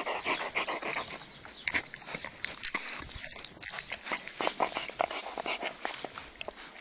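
An Alaskan Malamute panting, with many short irregular clicks and rustles.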